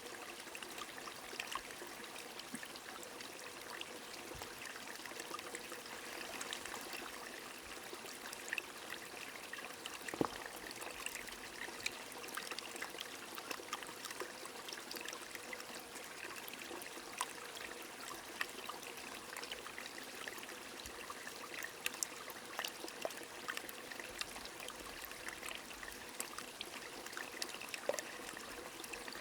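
A small stream trickling steadily under light rain, with many scattered drops ticking sharply.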